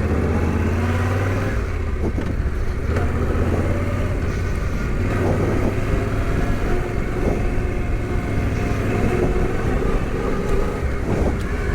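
Adventure motorcycle's engine running at low speed as the bike rides off, its note rising and falling slightly with the throttle.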